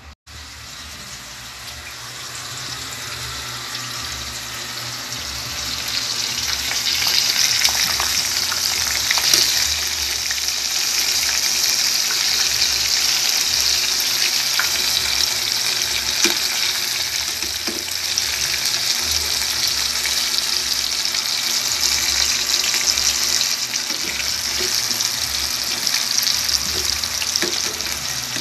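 Chicken pieces frying in hot oil in a pot: a steady crackling sizzle with scattered pops, building up over the first several seconds and then holding.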